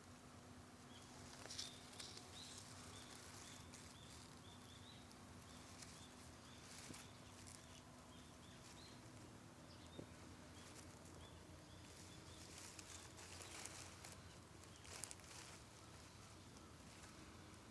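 Faint crackling of a wood campfire, with scattered small pops. A bird repeats a short high chirp several times a second for the first ten seconds or so.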